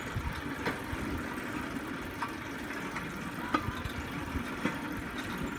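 Steel wheels of a pedal-powered rail bike rolling along railroad track: a steady rumble with a sharp clack every second or so.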